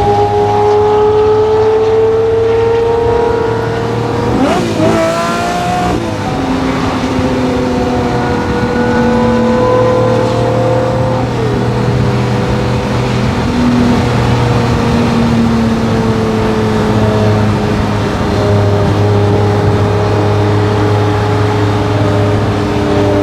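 Lamborghini Murcielago LP640's 6.5-litre V12 through a straight-piped Fi Exhaust, running at steady cruising revs with the pitch slowly climbing, a quick rise and fall in pitch about five seconds in, then settling into a steady drone again.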